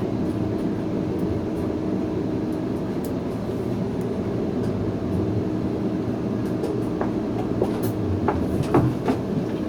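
SMART passenger train running and slowing under a full service brake application, heard on board: a steady low rumble with a faint steady hum, and a few sharp knocks and clunks in the last few seconds.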